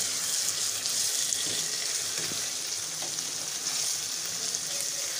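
Soaked urad dal (mash ki dal) with whole spices sizzling in oil and ghee in a pan as it is stirred with a spatula: a steady frying hiss with a few faint ticks. The fat has begun to separate, the sign that the dal is well fried (bhuna).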